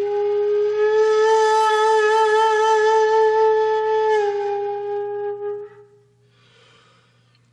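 Background music: a woodwind instrument, flute-like, holds one long wavering note that steps down slightly about four seconds in and then fades away.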